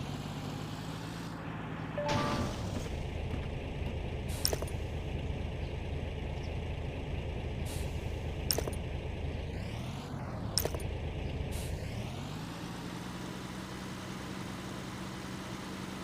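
A vehicle engine running steadily, its pitch dropping and climbing back about two seconds in and again around ten to twelve seconds. There is a short beeping tone just after two seconds and several sharp clicks in between.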